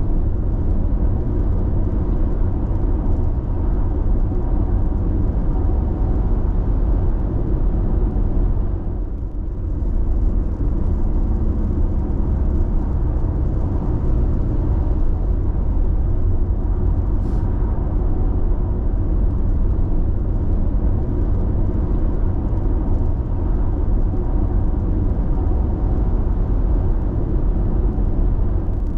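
Steady road noise inside a car cruising on an expressway: mostly low-pitched tyre and engine rumble. The noise dips briefly about nine seconds in.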